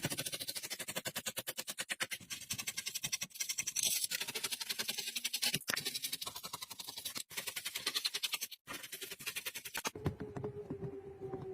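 Rapid, evenly repeated scraping strokes, about ten a second, broken off abruptly several times. Near the end they give way to a faint, slowly falling tone with clicks.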